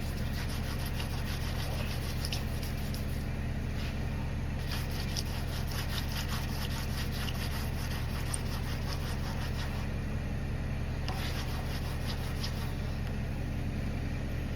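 Wet sanding by hand: wet-dry sandpaper on a foam pad rubbing over painted metal in runs of quick back-and-forth strokes with short pauses, over a steady low hum.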